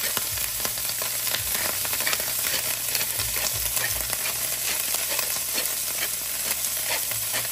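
Cabbage green leaves frying in rendered pork fat back in a pan: a steady sizzle with fine crackles. The leaves are cooking down in the fat and a little water.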